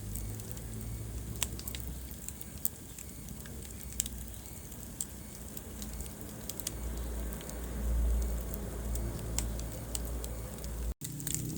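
Wood fire burning in a fireplace: irregular sharp crackles and pops over a low steady rumble of flame. The sound cuts out completely for a split second near the end.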